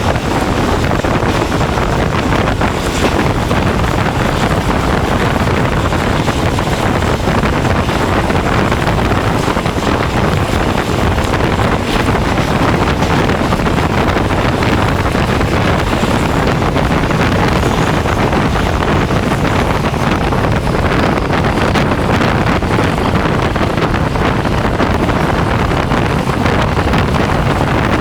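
Steady rumble of a moving train, with heavy wind buffeting the microphone.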